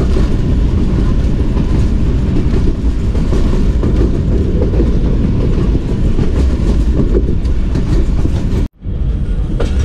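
Passenger train running along the track, heard from aboard a coach: a steady low rumble of wheels on rails with faint rail-joint clatter. The sound drops out for an instant near the end.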